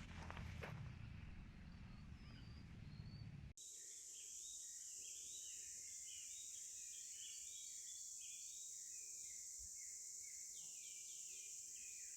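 Forest ambience: for the first few seconds a low rumbling and rustling, then a sudden change to a steady high-pitched insect drone with birds chirping and calling over it.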